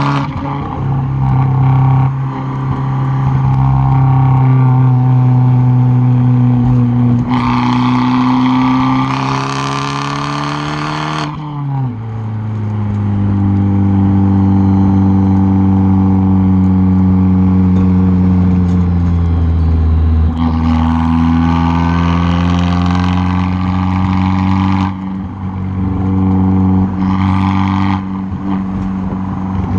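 Tuned, straight-piped Fiat 500 Abarth's turbocharged 1.4-litre four-cylinder exhaust under sustained throttle, heard close at the tailpipe. The engine pitch climbs slowly and drops sharply about eleven seconds in, then pulls on, with stretches of harsher, raspier noise over the steady drone.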